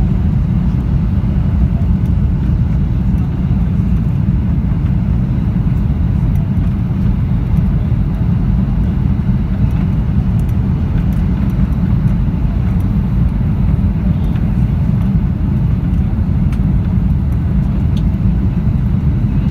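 Steady low rumble inside a Boeing 737-800's cabin in flight: the CFM56 jet engines and rushing airflow heard from a window seat, even throughout with no distinct events.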